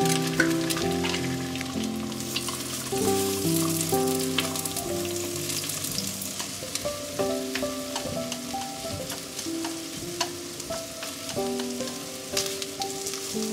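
Food sizzling and crackling as it cooks, with many small spits and pops, over soft background music with slow melodic notes.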